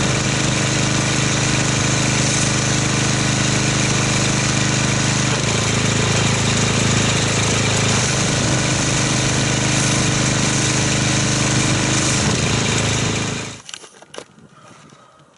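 Pressure washer running steadily, driving snow foam through a foam cannon, its motor and pump with a hiss of spray over it. The machine cuts off suddenly about two seconds before the end, leaving only faint small clicks.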